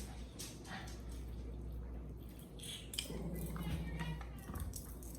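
Limes being squeezed by hand for salsa: scattered small clicks, taps and drips. About three seconds in there is a brief steady hum.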